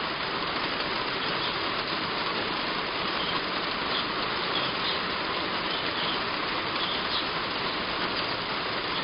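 Heavy rain falling steadily on a roof, with faint short bird chirps here and there.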